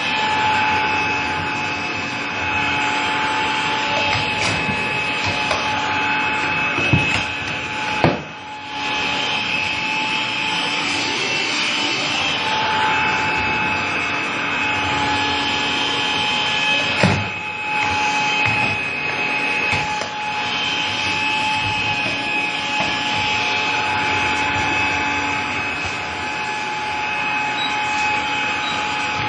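Vacuum cleaner running steadily with a constant whine, interrupted by a few scattered knocks.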